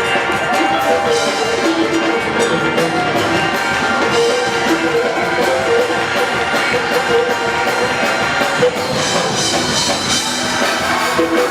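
Live church praise music: a band playing held notes over a drum kit with cymbals.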